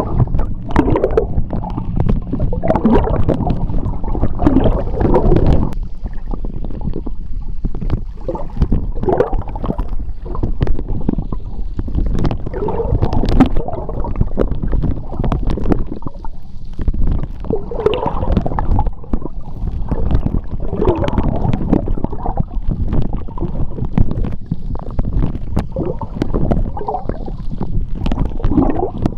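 Seawater heard underwater: a steady low rumble of moving water with gurgling swells of bubbles every few seconds, and scattered small clicks.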